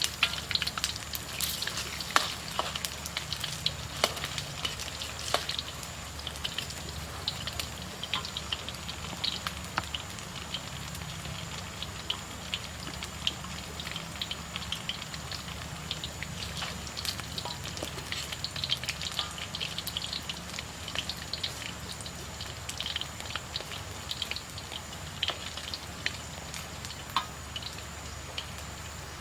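Breadfruit frying in hot oil: a steady sizzle with many irregular sharp pops.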